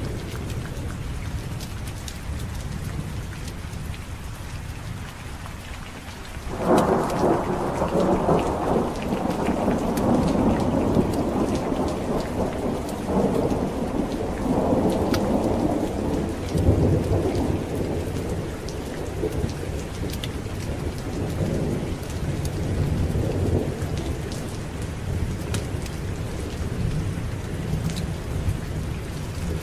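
Steady heavy rain. About six seconds in, a thunderclap breaks suddenly and rolls on, rumbling in swells and slowly fading over the next ten seconds or so.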